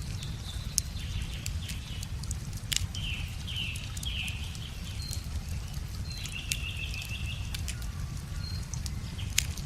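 Wood fire crackling with a few sharp pops, while songbirds sing short phrases and one trill over a steady low rush.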